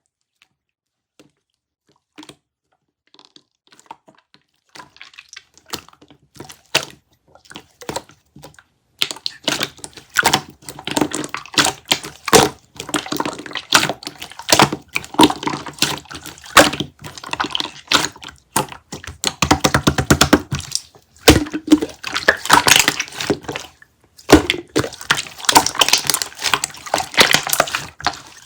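Stiff, hardened kiwi-jelly slime being handled and squeezed, giving sticky clicks and crackles. These are sparse at first and become dense and loud from about nine seconds in, with two short pauses near the end.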